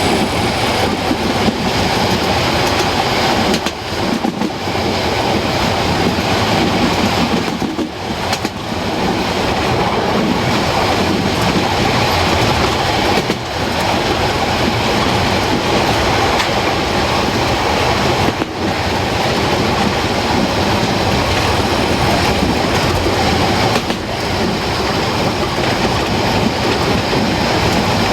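Narrow-gauge train running along the track, with a steady loud rumble of wheels and rails and a clickety-clack over the rail joints.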